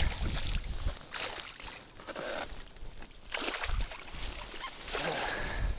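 Water sloshing against a small boat in the wind, with a few light knocks and thumps.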